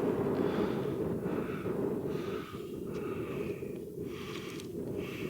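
Wind buffeting the microphone in a steady low rumble, with a tired hiker's heavy breathing coming and going over it.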